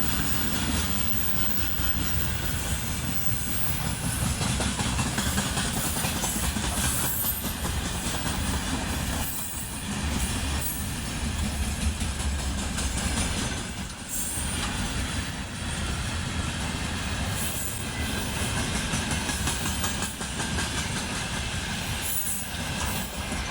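Freight train wagons rolling steadily past, with a continuous rumble and the clatter of wheels over the rails, dipping briefly now and then.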